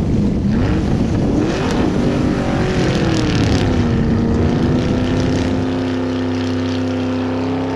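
A droning, engine-like hum whose pitch wavers, slides down and then holds steady about halfway through, over steady wind and water noise.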